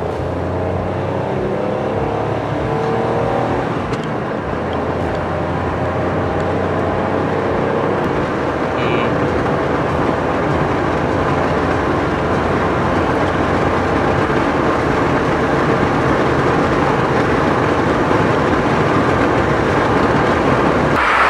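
Maruti Suzuki Celerio CNG's 1.0-litre three-cylinder engine and road noise heard from inside the cabin while the car accelerates hard on a top-speed run. The engine note rises over the first few seconds, then the sound grows slightly louder.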